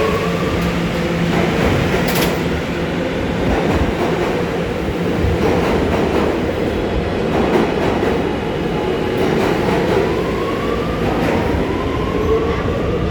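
New York City subway train running on the rails: a steady loud rumble with wheel clatter, a rising motor whine near the start and again in the last few seconds, and sharp clicks near the start and about two seconds in.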